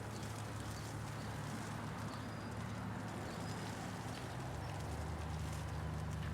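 Hail falling steadily as a dense spread of small ticks, over the low hum of city traffic engines, which shifts in pitch about five seconds in.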